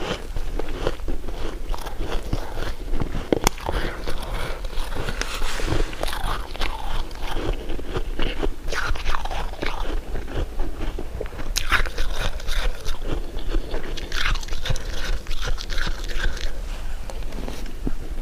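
A person biting and chewing crunchy food up close to the microphone: irregular crisp crunches and crackles, ASMR-style eating sounds.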